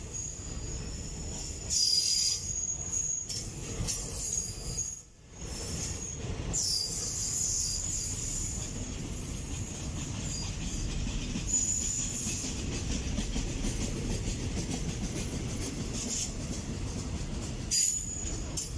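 Freight train wagons rolling past on the rails with a steady rumble, the wheels giving intermittent high-pitched squeals.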